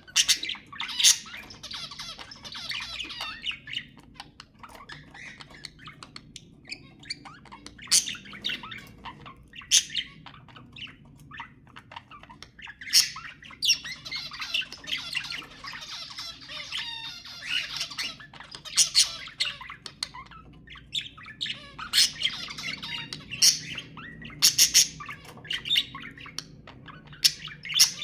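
Budgerigars chattering and warbling continuously, broken by frequent short, sharp squawks, several of them loud.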